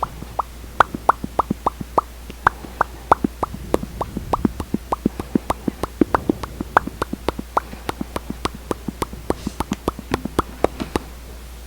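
Close-miked lip smacking: a quick run of short wet lip pops, about three to four a second, that stops just before the end.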